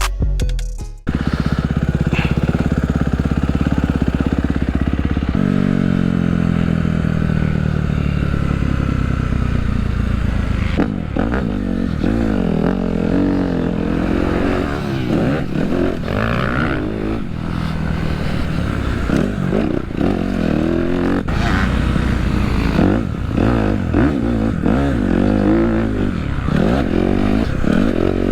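A dirt bike engine being ridden hard, starting about a second in. It runs steadily at first, then its pitch rises and falls again and again with throttle and gear changes.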